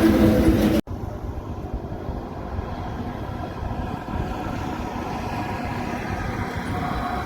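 Heavy truck traffic: a loud truck engine cuts off abruptly less than a second in, leaving a quieter steady rumble of passing vehicles, with a humming tone growing near the end.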